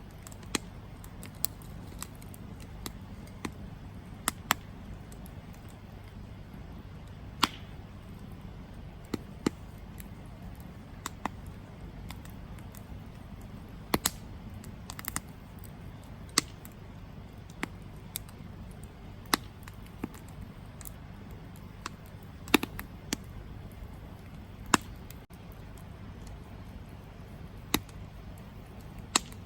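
Wood campfire burning: sharp, irregular crackles and pops, roughly one a second and varying in loudness, over a steady low rumble.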